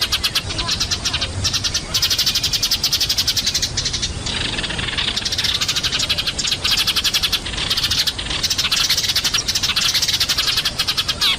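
A flock of Eurasian tree sparrows chirping noisily, with many rapid overlapping chirps and no break. This is a lure call played to draw sparrows down.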